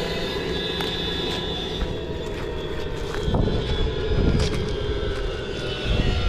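A steady engine drone, with a few sharp clicks and low bumps on top.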